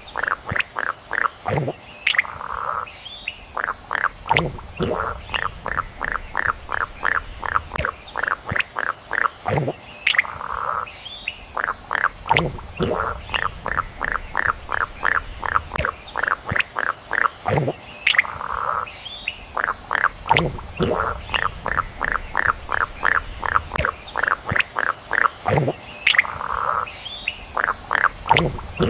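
Frogs calling in long series of short, rapid pulsed notes, several a second, with a few louder calls among them. The same sequence comes round again about every eight seconds.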